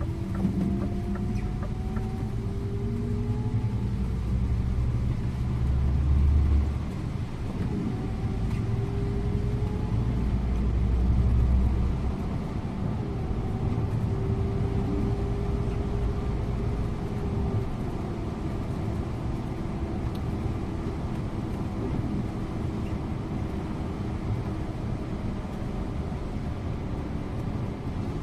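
Scania InterLink bus engine pulling at speed with a low rumble, its pitch rising slowly twice in the first half as the bus accelerates, then running steadily with road noise.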